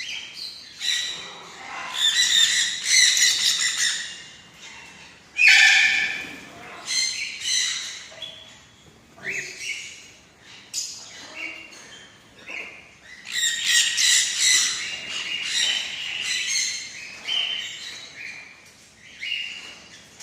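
Sun conure squawking and chattering in repeated bouts of high, shrill calls, the loudest about five and a half seconds in.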